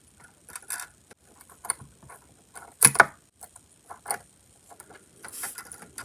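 Small plastic parts of an HO scale boxcar kit clicking and rattling as they are handled and pressed together, a string of short irregular taps with the loudest knock about three seconds in.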